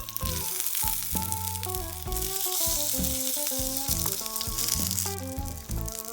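Marushin hamburger patty sizzling and frying in an iron frying pan, the hiss swelling in the middle and easing near the end, under background music with a bass line and a stepping melody.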